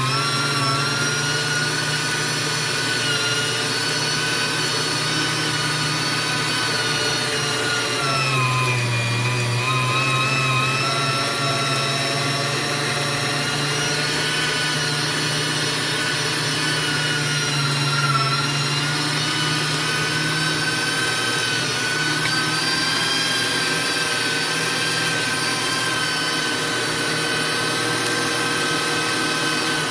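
Electric meat grinder motor running steadily while grinding beef, its pitch sagging for a moment about eight seconds in and again near eighteen seconds as the load comes on. The grinder is working badly, which the owner later puts down to meat that wasn't cold enough and a blade not seated right.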